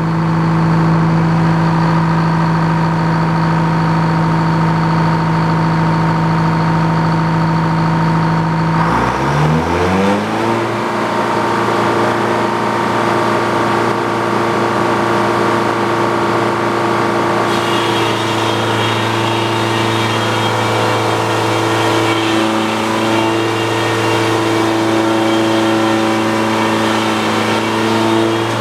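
The engine driving an antique Frick sawmill runs steadily, then about a third of the way in speeds up with a rising pitch and holds at a higher speed. About halfway through a steady high hiss joins it as the circular saw cuts through the log.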